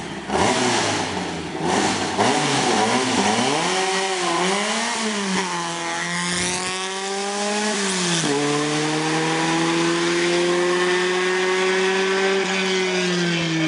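A competition car's engine blipping the throttle at the start line, then launching and accelerating away hard. The engine note climbs, drops sharply at a gear change about eight seconds in, climbs slowly again, and dips once more near the end.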